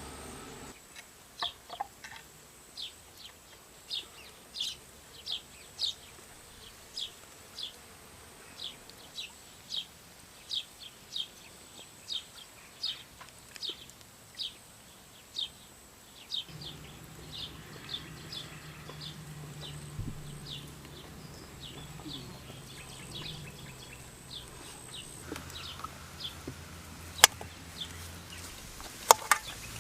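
A bird calling with a short high chirp, repeated over and over at about three every two seconds. Two sharp clicks near the end are the loudest sounds.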